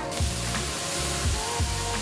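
Fish and masala sizzling on a large, hot, flat griddle (tawa), a steady hiss with no spatula strikes, over background music.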